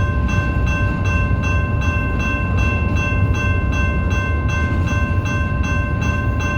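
BNSF train running, a steady low noise, with a bell ringing evenly about three strokes a second over it.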